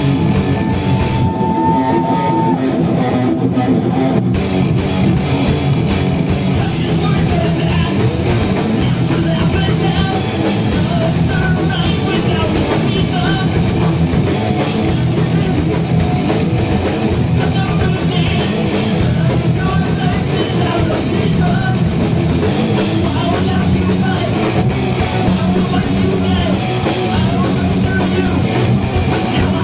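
Live heavy metal band playing: distorted electric guitars, bass and drum kit. The cymbals fill in fully about six seconds in.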